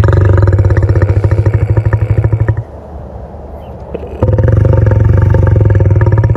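Lion growling: two long, rough, low growls, each about two and a half seconds, with a short pause between.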